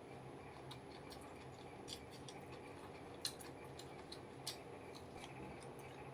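A person eating: quiet chewing with scattered sharp mouth clicks and crunches, about six at irregular intervals over a faint steady background.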